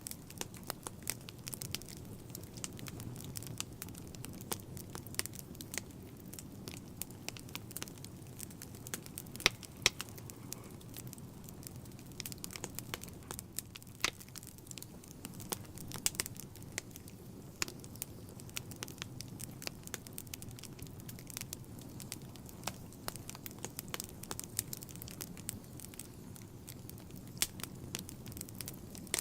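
Wood fire burning in a fireplace: irregular sharp crackles and pops over a steady low rumble of flames, with a few louder pops.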